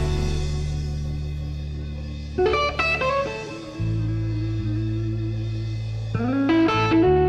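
Instrumental soul-blues: an electric guitar plays quick rising phrases, about two and a half and six and a half seconds in, over long held bass notes.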